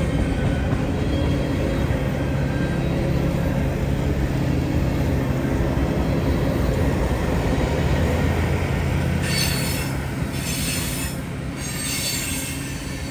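Freight train of covered hoppers and tank cars rolling past at close range: a steady rumble and clatter of steel wheels on rail. In the last few seconds, high-pitched hiss or squeal from the wheels comes and goes about four times.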